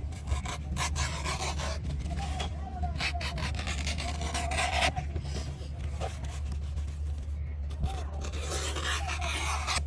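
Rasping, scraping strokes of a tool on a hard surface, coming in stretches of a second or two, over a steady low hum.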